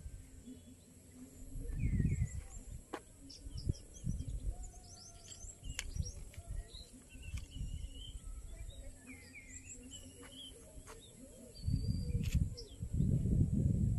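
Birds chirping and calling in scattered short high notes and quick glides. Low rumbling gusts of wind on the microphone come about two seconds in and grow loudest near the end.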